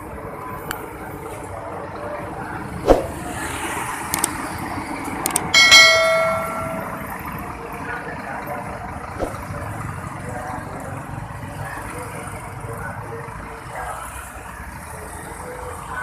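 Vehicle engines running steadily in the background, with a few sharp clicks and a single short ringing chime, about a second long, roughly six seconds in.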